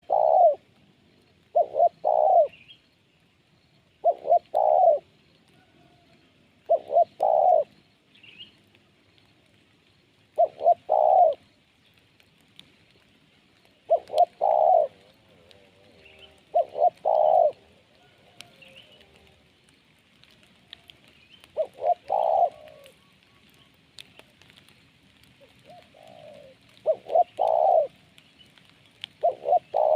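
Spotted dove (terkukur) cooing: short phrases of two or three low notes, repeated every two to three seconds.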